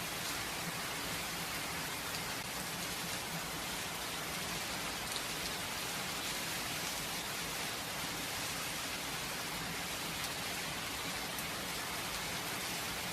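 Steady rain falling, with no thunder: an even hiss with scattered individual drop patters.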